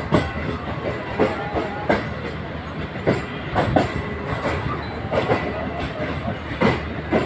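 Green Line Express passenger train rolling slowly, its wheels clacking over rail joints in irregular pairs every half second or so, over a steady rumble and a faint wheel squeal.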